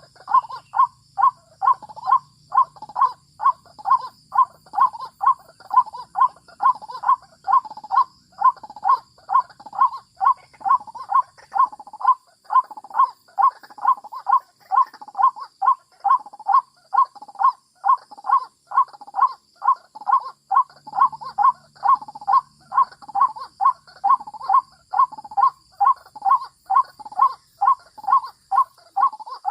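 White-breasted waterhen calling: one harsh note repeated steadily, about twice a second, without a break.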